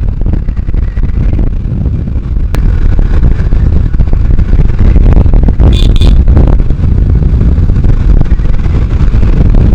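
Riding a motorcycle: heavy wind buffeting on the microphone with the engine running, getting louder about three seconds in.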